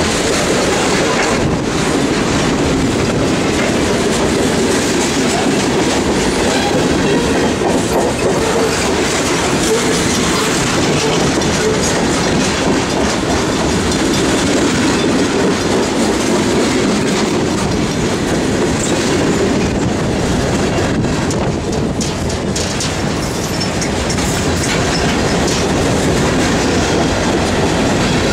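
Grain train's railroad cars rolling steadily past at close range: a continuous rumble with wheels clicking over the rail joints.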